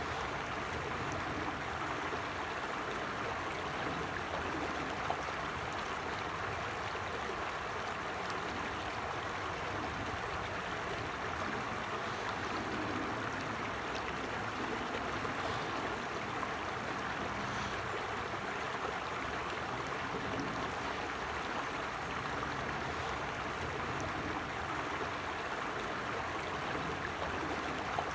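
A creek flowing steadily: an even, unbroken rush of running water.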